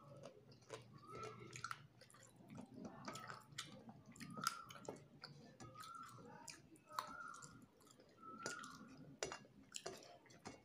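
Quiet close-up chewing of a person eating with the fingers, broken by many short sharp clicks and wet smacks.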